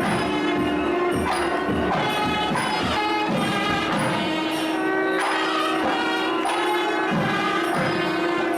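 South Indian temple music: a loud reed melody, of the nadaswaram kind, over a steady drone, with regular thavil drum strokes beneath.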